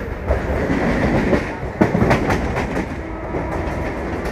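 Running noise of a Mumbai suburban local electric train heard from on board while it rolls slowly. A steady rumble is broken by several sharp clicks of the wheels over rail joints.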